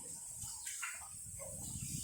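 Pigs grunting faintly, a few short grunts over low rustling.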